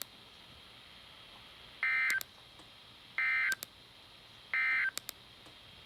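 NOAA Weather Radio SAME digital data tones: three short, identical buzzy bursts about a second and a half apart. This is the End Of Message code that closes the severe thunderstorm warning broadcast.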